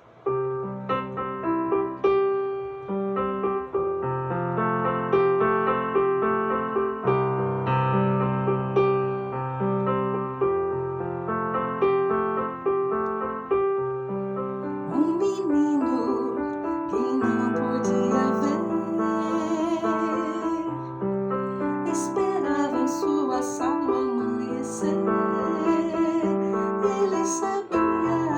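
Instrumental keyboard music playing a slow, piano-like introduction of held chords and melody notes. From about halfway through, high bright tinkling tones and sharp chime-like strikes join in.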